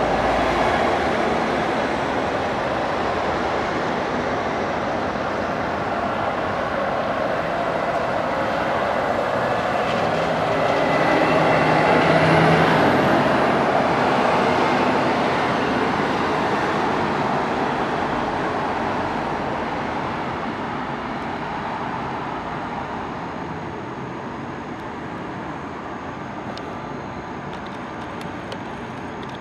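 Road traffic, with a heavy vehicle passing close by: a steady rush of engines and tyres that builds to a peak about twelve seconds in, then slowly fades away.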